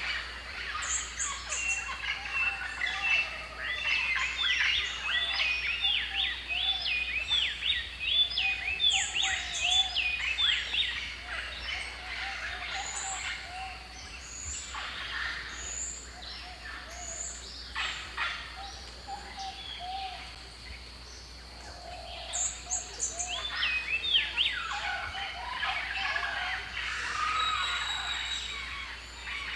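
Several birds calling at once: a dense chorus of quick, rapidly rising and falling chirps with lower calls underneath, thinning out midway and picking up again near the end.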